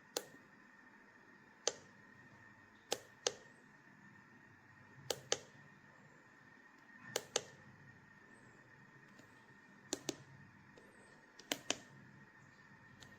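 Sharp clicks, mostly in close pairs about a quarter second apart, every one to two seconds, over a faint steady high-pitched hum.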